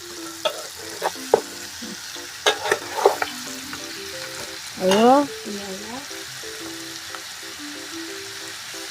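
Chicken and bamboo shoot frying in oil in a pan, a steady sizzle, with the spatula knocking and scraping against the pan as it is stirred, mostly in the first few seconds. A short, loud sliding pitched sound comes about five seconds in, over faint background music.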